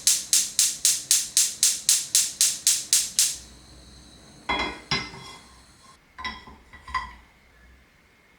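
A spoon clinks against a cup in an even rhythm of about four strikes a second for some three seconds, leaving a light ringing. A few separate ringing clinks of dishware follow, each with a short ringing tail.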